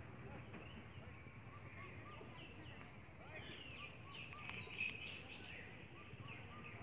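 Faint birdsong: one bird repeats a short note about three times a second. A busier run of higher chirps and calls comes in the middle, over a steady low background rumble.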